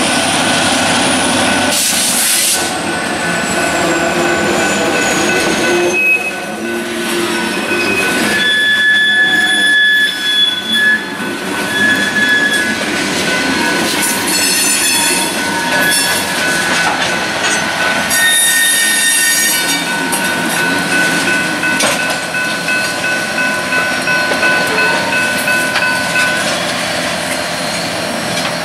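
Freight train cars rolling past with a continuous rumble, their steel wheels squealing in several high, steady whistling tones that come and go, one sliding downward in pitch near the start.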